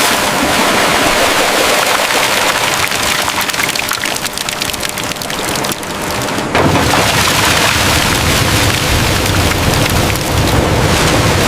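Dense, steady hiss of heavy falling and splashing water, like a downpour. A deeper rumble joins about six and a half seconds in.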